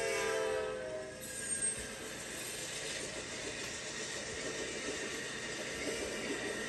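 Amtrak P42DC locomotive's multi-tone horn sounding as the train passes, its pitch dropping and cutting off about a second in. The steady rushing noise of the passing train follows.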